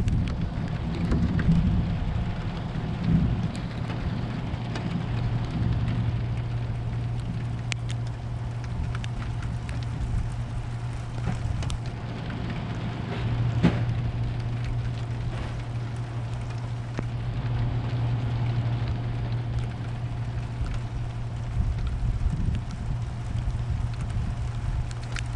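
Steady rain falling in a thunderstorm, with scattered drops ticking close by and a steady low hum underneath. A few low swells in the first seconds, and one sharper tick about halfway through.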